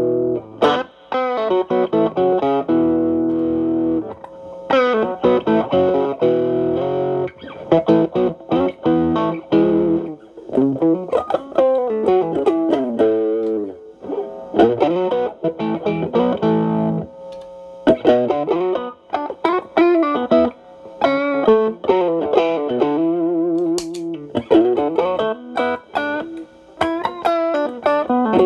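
Overdriven electric guitar: a Stratocaster through the Xotic AC Plus pedal's Channel B, gain at 10 to 11, into a Marshall Valvestate amp. It plays held chords for the first few seconds, then runs of single notes with bends.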